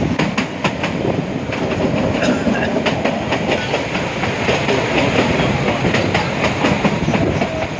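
Mountain stream in flood after a cloudburst: loud, steady rush of fast water, with many sharp clicks and knocks running through it.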